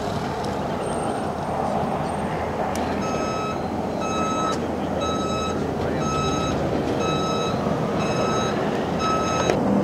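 A vehicle's back-up alarm beeping about once a second, about seven beeps starting roughly three seconds in, over a steady engine rumble.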